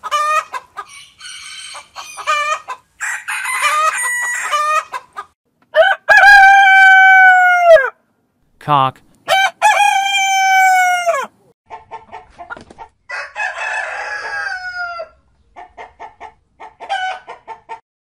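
Domestic chickens: a hen clucking in short runs, and two long rooster crows about six and nine seconds in, each dropping in pitch at the end. After the crows come more clucks and squawks.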